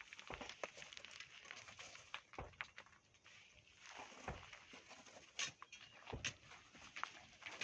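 Irregular knocks and clicks with a few dull thuds, over a faint hiss.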